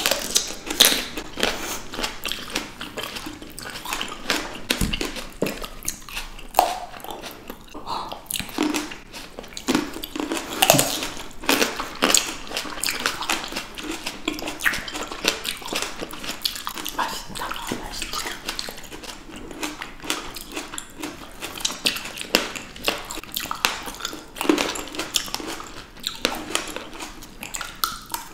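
Two people biting and chewing fresh green grapes and strawberries close to the microphone: a dense, irregular run of short, crisp snaps and juicy squelches.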